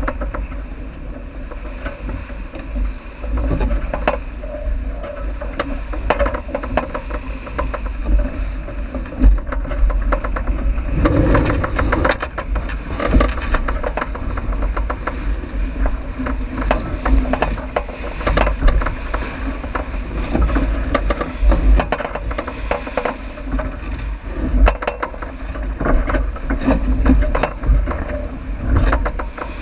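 Wind rumbling on the microphone and water noise aboard a J80 sailboat sailing downwind, with scattered knocks throughout.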